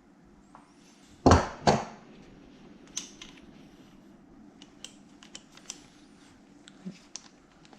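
Two sharp knocks close together, then scattered light clicks and taps: metal strap hardware and hand tools being handled on a work surface.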